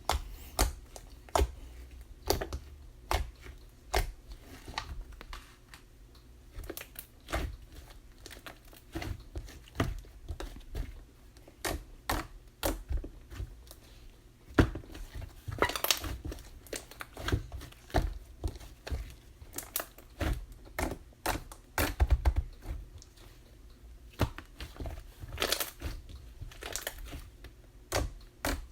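Chocolate slime being pressed, stretched and folded by hand, giving irregular sticky pops and crackles, about one or two a second.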